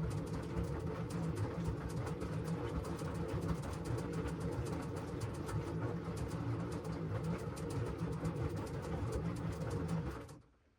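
LG washing machine drum turning in the wash cycle: a low motor hum with rapid clattering and sloshing of the wet load. It stops abruptly about ten seconds in, as the drum pauses between turns.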